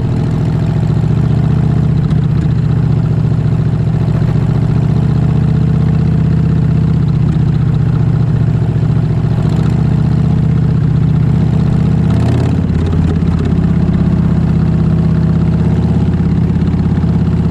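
Harley-Davidson Fat Bob's Milwaukee-Eight 114 V-twin, breathing through a Vance & Hines full exhaust system, running at steady revs. The engine note changes briefly about twelve seconds in.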